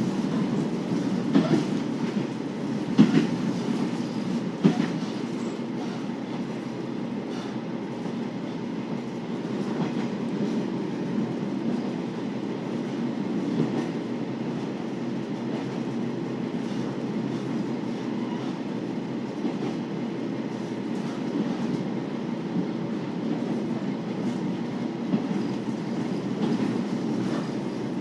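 KiHa 40 series 2000-subseries diesel railcar under way: a steady rumble of engine and wheels on the rails, with a few sharp clicks of wheels over rail joints in the first five seconds.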